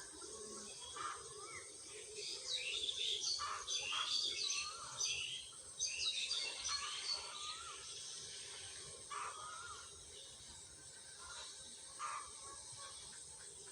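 Small birds chirping and calling, with a dense flurry of quick high chirps in the middle and a few short gliding calls, over a steady background hiss.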